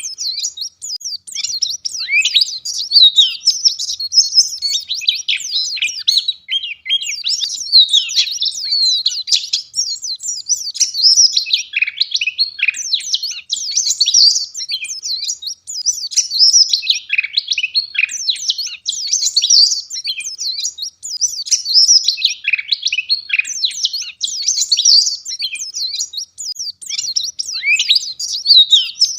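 Wild white-eye (pleci) singing a rapid, unbroken twittering song of high chirps and trills.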